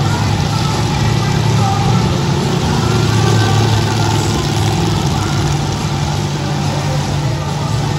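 Monster truck engines running steadily at idle, a low, loud rumble with a haze of arena noise over it.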